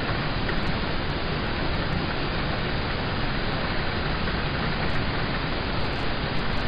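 Steady rain on a car, heard from inside the cabin: an even hiss with a low rumble underneath.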